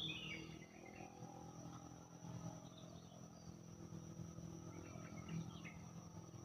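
Faint outdoor ambience: birds chirping in short phrases at the start and again about five seconds in, over a steady high insect-like buzz and a low hum.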